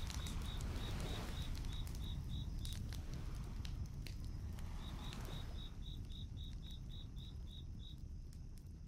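Crickets chirping in two runs of about four chirps a second over a crackling campfire, the whole slowly fading out.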